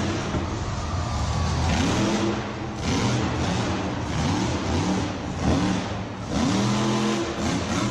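Children making revving engine noises with their voices while playing with toy monster trucks: a string of short rising-and-falling vroom sweeps, about one a second.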